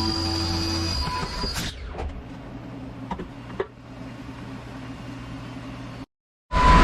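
Background music ends about a second and a half in, leaving the low steady hum of a CNC milling machine with a few sharp clicks. The sound drops out completely for a moment near the end.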